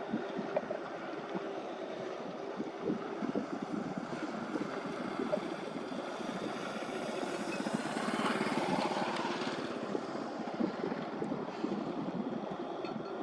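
A small engine running steadily with a fast pulsing beat, swelling briefly a little over halfway through.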